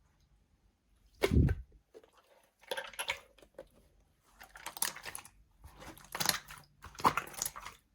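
Clear slime squished and pressed by hand, making a series of short, wet crackly squishes with a louder low thump about a second in.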